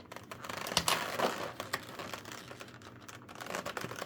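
Plastic toy parts being handled and opened: a run of small plastic clicks, taps and rustles, with a sharper click about a second in.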